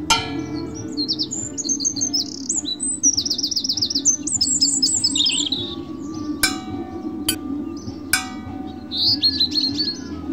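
Birds chirping in quick, high trills, over a steady low hum. A few sharp, ringing struck notes sound at the start and again three times in the second half.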